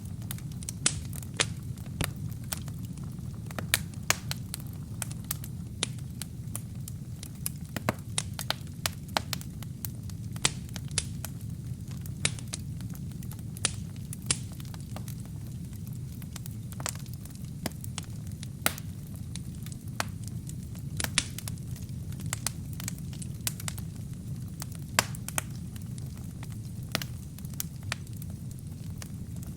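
Wood fire burning in a fireplace: a steady low rumble of flames with frequent sharp, irregular crackles and pops from the burning wood and kindling.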